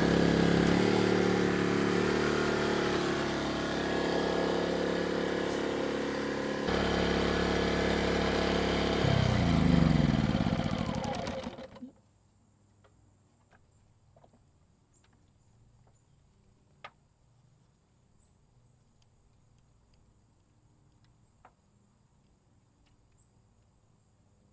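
Erayak 4500PD dual-fuel inverter generator engine running steadily on gasoline, then shut off: about nine seconds in, its note falls in pitch as it spins down, and it stops near the middle. What follows is near silence with a few faint clicks.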